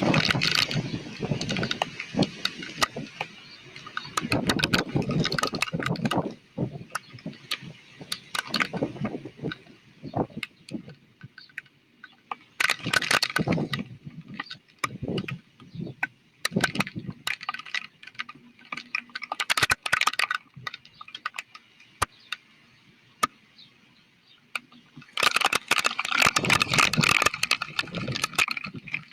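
Thunderstorm with high winds: gusts of wind and rain come and go in loud surges, several seconds long, with many sharp crackling clicks throughout.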